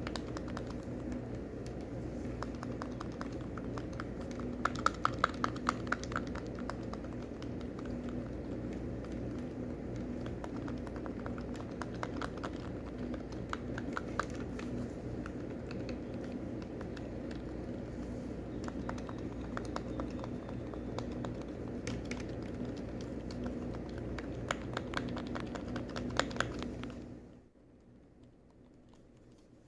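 Buttons being pressed and clicked rapidly over and over, a dense run of small clicks like typing, with a cluster of louder clicks about five seconds in, over a steady low hum. The clicking and hum stop abruptly a few seconds before the end, leaving near quiet.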